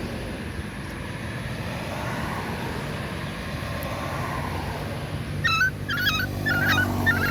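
Puppies whimpering and yipping in a run of short, high-pitched cries starting about five seconds in, over a steady low hum and background noise.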